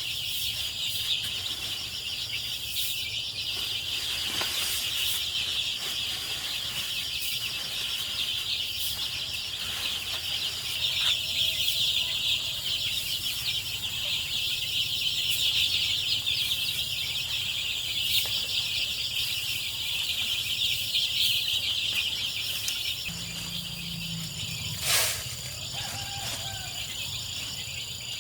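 A flock of young chickens peeping and chirping continuously in a dense high chorus, with a low steady hum underneath and a single knock near the end.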